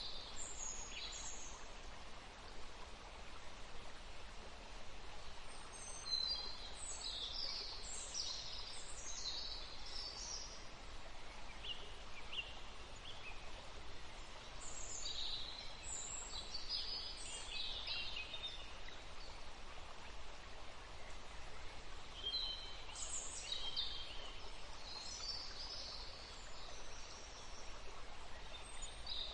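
Songbirds singing in groups of quick, high chirps and trills every several seconds, over a steady background hiss.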